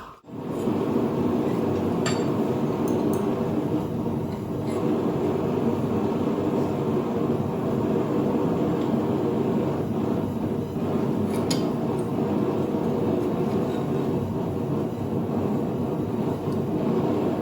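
Propane forge burner running with a steady roar while the bar heats, with a few light metallic clinks.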